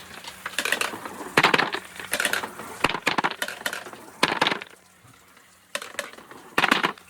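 Marbles rolling and clattering along a marble run track, a run of irregular clicks and rattles that dies down briefly about five seconds in before more clacks.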